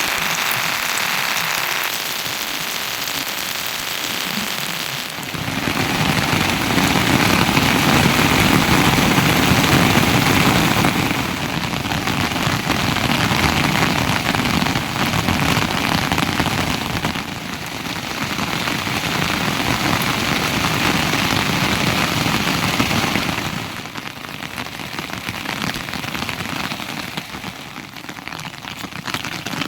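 Steady rain falling, a dense hiss of drops. Its loudness and tone shift every few seconds.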